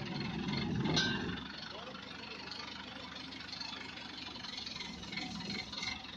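An engine running steadily, with a sharp click about a second in.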